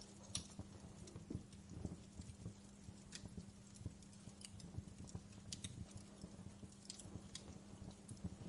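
Wood fire crackling in a fireplace: irregular sharp pops and snaps, a few a second, over a low rumble, with a faint steady hum underneath.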